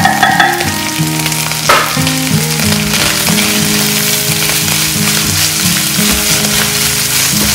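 Flaked tuna, onion and garlic frying in hot oil in a nonstick wok: a steady sizzle, stirred with a silicone spatula, with one sharp tap about two seconds in.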